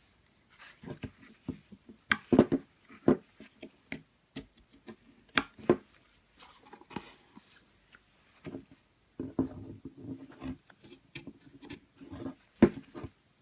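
Plastic scraper tool scraping and picking carbon deposits (coke) off a Volvo D5 diesel EGR valve: irregular short scrapes, clicks and knocks, with a longer run of scraping about nine seconds in.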